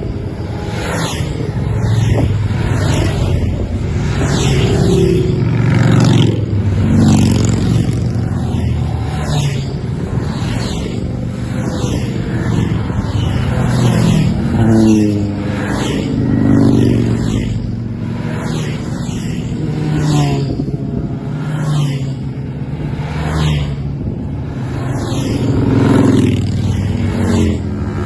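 Motor vehicles on a group road ride passing one after another, engines running, with a falling whoosh as each goes by.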